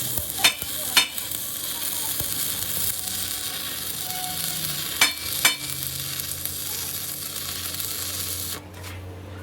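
A steady hiss, broken by two pairs of sharp clicks, each pair about half a second apart. The hiss cuts off suddenly near the end.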